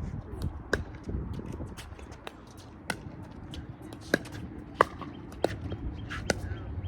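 Pickleball rally: paddles striking a hard plastic pickleball, a run of sharp pops about every half second to second, some louder than others. Wind rumbles low on the microphone throughout.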